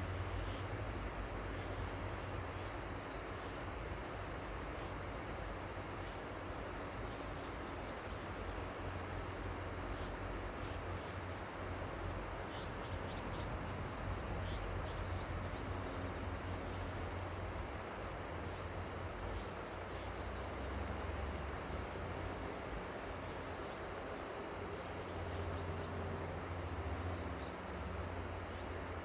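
River water flowing steadily, with a low rumble underneath and a few faint high chirps around the middle.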